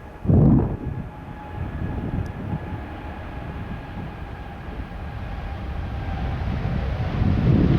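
Jet airliner taking off, its engines giving a deep rumble with a steady whine that grows louder toward the end. A short, loud buffet of wind on the microphone about half a second in.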